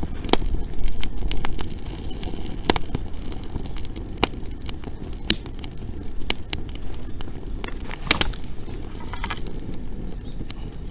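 Wood bonfire crackling, with irregular sharp pops about a second or two apart over a steady low rumble. The dry fuel is burning well.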